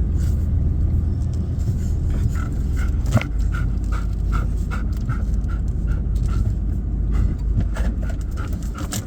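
Dog panting rapidly, about three pants a second, over the steady low rumble of the truck's engine and road noise in the cab, with a single sharp knock about three seconds in.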